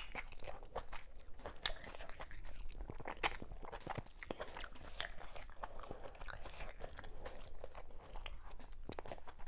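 Close-miked eating: chewing and biting with irregular wet smacks and crunchy clicks, typical of chewing fufu, okra soup and chewy cow meats such as tripe and skin.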